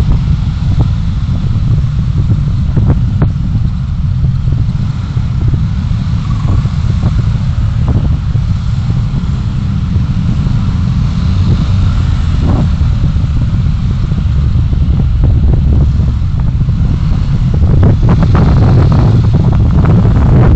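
A vehicle driving along a city street: a steady, loud low rumble of road and engine noise, with wind buffeting the microphone and scattered short knocks and flaps.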